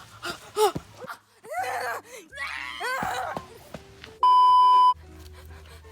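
A few short, high cries, then about four seconds in a loud, steady electronic beep tone lasting under a second.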